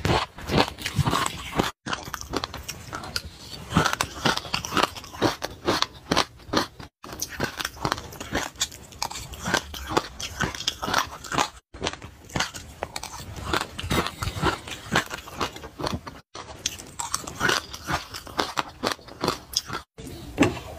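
Close-up chewing and crunching of sesame seeds soaked in liquid: dense, sharp crackling crunches, broken by a few brief silent gaps.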